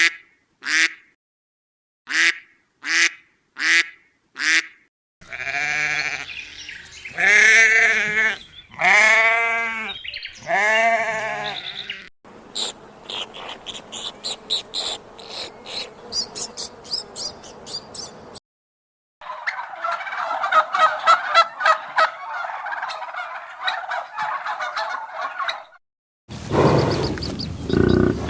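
A run of animal calls, one after another. First come about five short duck quacks. Then come several long wavering sheep bleats, a squirrel's fast clicking chatter and a turkey's rapid gobbling. Near the end come low grunts from a buffalo.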